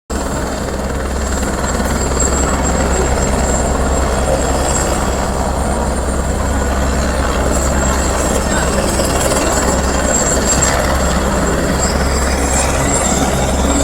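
Helicopter running steadily: a constant heavy low drone from the rotors and engine with a thin, steady high whine above it.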